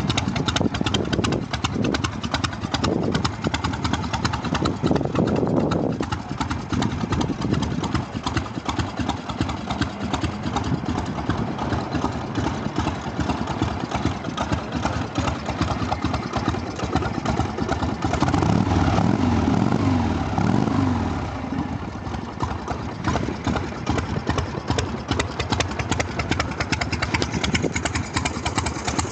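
1979 Harley-Davidson 80-inch Shovelhead V-twin idling with a lumpy, uneven beat through loud pipes. It is revved up and down a few times about two-thirds of the way through, then settles back to idle.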